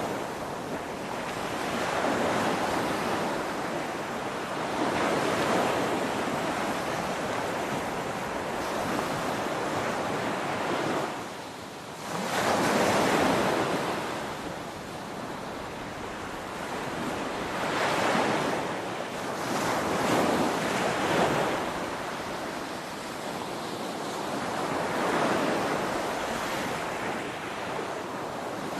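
Ocean waves crashing in steady surf, swelling and falling every few seconds; the loudest wave breaks about halfway through, right after a brief lull.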